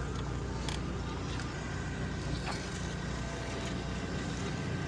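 Race car engines running steadily, heard as an even low drone with no revving, and a single faint tick about two and a half seconds in.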